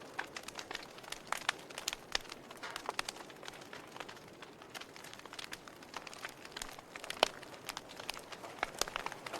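Campfire crackling: irregular sharp pops and snaps from the burning wood over a soft steady hiss, with one louder pop about seven seconds in.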